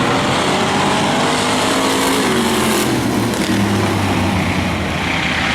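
Several race-car engines running hard, their pitch rising and falling as they rev.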